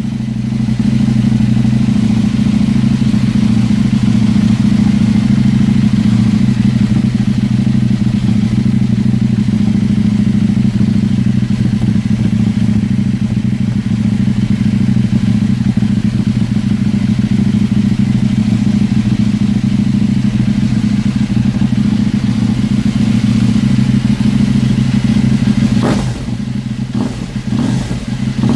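KTM 790 Duke's parallel-twin engine idling steadily through an Austin Racing GP1R slip-on exhaust with the dB killer removed, just after starting. Near the end the sound shifts a little and a few sharp clicks come through.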